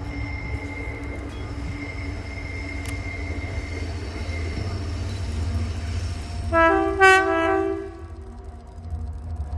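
Colas Rail Class 70 diesel-electric locomotive (GE PowerHaul V16) running with a steady low engine rumble, with a thin steady high whine in the first half. About two-thirds of the way through it gives a short, loud horn blast with two tones.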